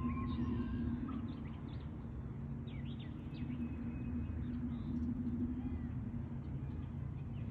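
Small birds chirping in many short, quick calls over a low steady rumble.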